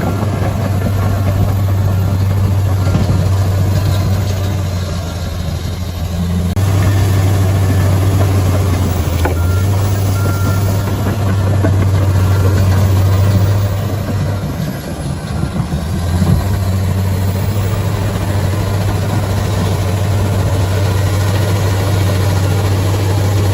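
Bulldozer diesel engine running with a steady low drone, its sound shifting abruptly a few times and dipping briefly past the middle.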